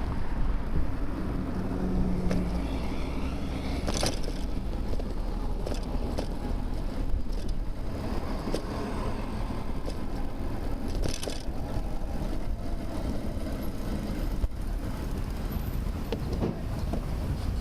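Steady wind and road rumble on a bicycle-mounted camera while riding, with motor traffic. Two brief clatters come about four seconds in and again about eleven seconds in.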